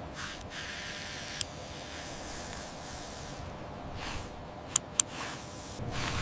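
Steady soft hiss of sprayed cleaning solution, with a few short sharp clicks about a second and a half in and twice close together near the end.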